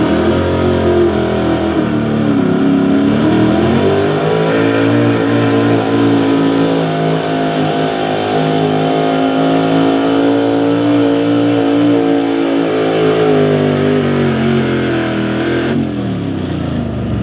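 A 1970 Chevy K20's small-block V8 is revving hard under full load as the pickup pulls a sled. The pitch dips about two seconds in, then climbs back and holds high and steady, and falls away near the end as the pull finishes.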